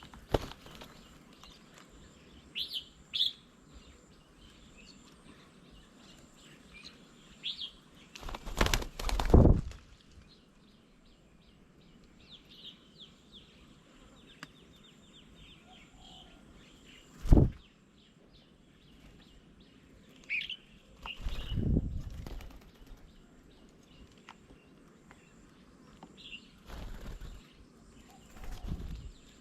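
Birds at a feeding table: scattered short, high chirping calls and several loud, brief flurries of wing flapping, the loudest about nine seconds in.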